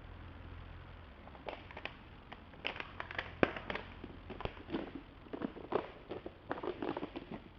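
A run of irregular sharp clicks and knocks, starting about a second and a half in and stopping just before the end, over a faint low steady hum.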